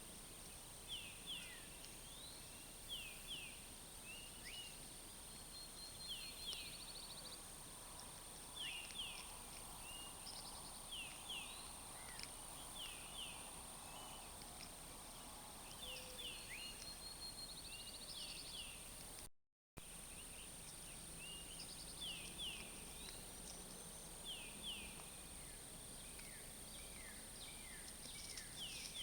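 Outdoor summer ambience: birds calling over and over with short, quick falling chirps, often in pairs, and a couple of brief fast trills, over a steady high insect drone. The sound cuts out for a moment about two-thirds through and picks up again with the same calls.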